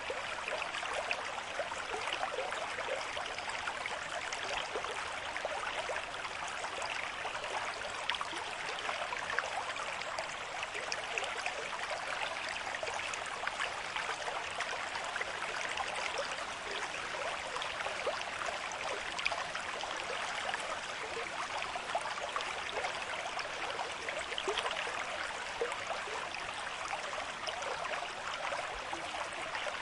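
River stream with moderate flow running over rocks: a steady, continuous rush of water with fine gurgling and splashing detail.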